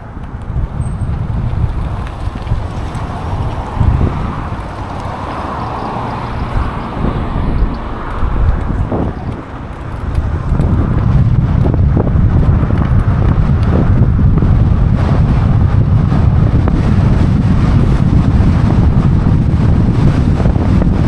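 Wind buffeting the microphone on a moving e-bike, a heavy low rumble that grows louder about halfway through.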